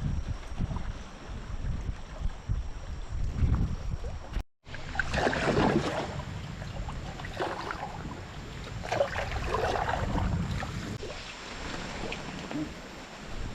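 Wind rumbling on the microphone, with bursts of rushing, splashing noise like water moving past a boat. The sound cuts out completely for a moment about four and a half seconds in.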